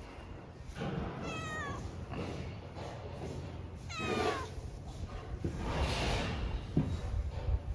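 A cat meowing twice, each meow falling in pitch.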